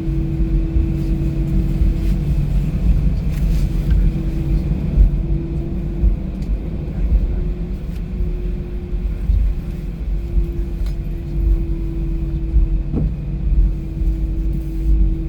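Cabin noise of an Airbus A319 taxiing on the ground: a steady low rumble with a held engine hum that wavers slightly in pitch.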